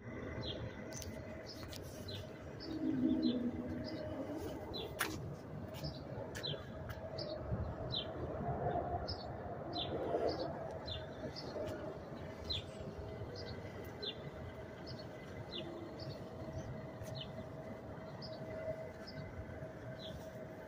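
A bird chirping over and over, short falling chirps about once or twice a second, over a steady background hum and rumble with a constant drone.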